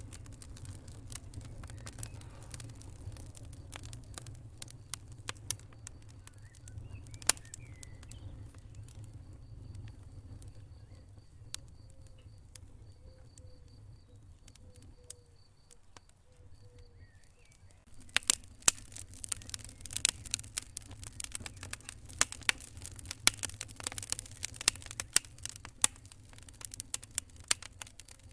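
Wood fire crackling and popping in a fireplace over a steady low rumble. The pops come thicker and sharper about two-thirds of the way in.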